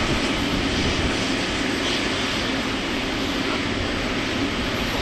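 Steady aircraft engine noise on the airport apron, level and unbroken.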